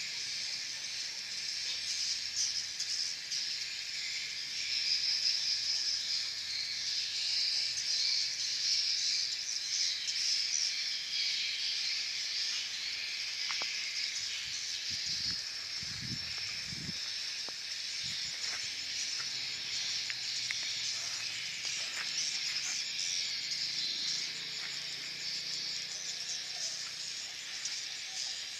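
A dense chorus of swiftlets twittering and chirping, as heard in a swiftlet nesting house, a steady high-pitched chatter with no pauses.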